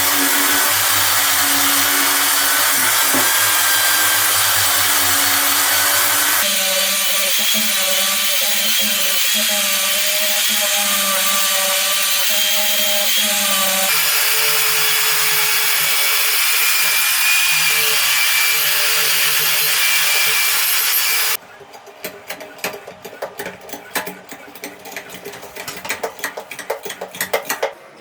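A power tool running steadily and loud, its pitch changing abruptly twice as if cut between shots. About three quarters of the way through it stops, and quieter irregular clicks and taps follow.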